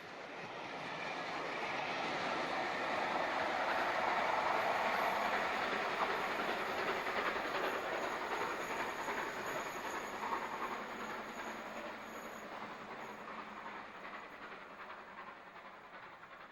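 A train passing by: the noise builds over the first few seconds, is loudest about four to six seconds in, then slowly fades away.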